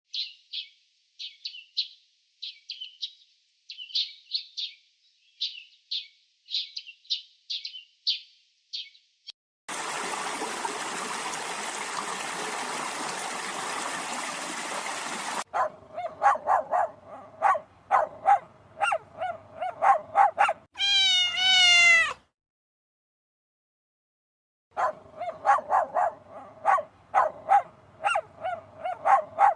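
Puppies yelping and whimpering: first a run of short, high squeaks, then a steady hiss for about six seconds. After that come rapid bursts of yips, a short run of falling whines, a brief pause, and more rapid yipping.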